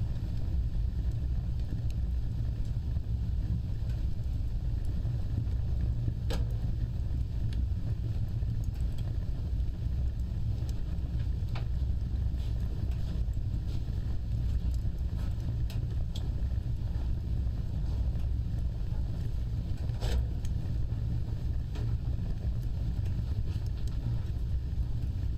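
Wood fire burning with a steady low roar, broken by scattered crackles and pops; the sharpest pops come about six seconds in and again about twenty seconds in.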